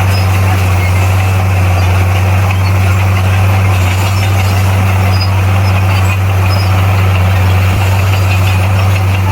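Bulldozer's diesel engine running steadily, a deep even drone that holds the same pitch throughout.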